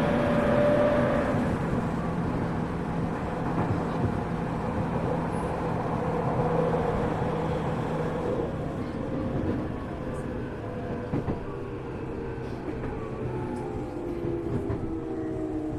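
Running sound inside a Tokyu 1000 series electric train's motor car: steady wheel-and-rail noise with a motor hum. In the second half, several motor tones glide downward together as the train slows.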